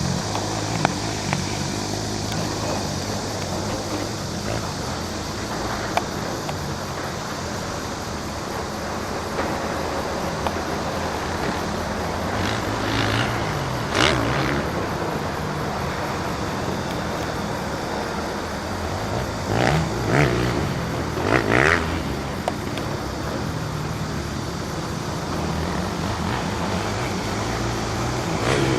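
Motocross motorcycle engines running steadily, with a few brief louder bursts partway through.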